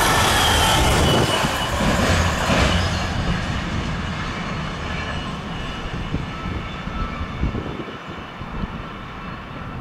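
Container wagons of a freight train rolling past close by at speed, their wheels running on the rails; the last of them clears after about a second, and the rail noise then fades steadily as the train draws away.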